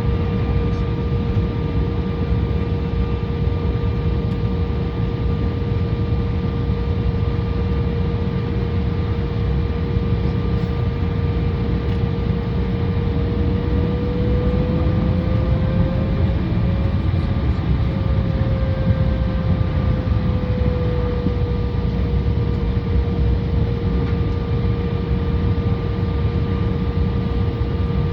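Embraer 175 jet cabin noise at low power: a steady rumble with a steady whine that rises slightly in pitch about halfway through and then settles back.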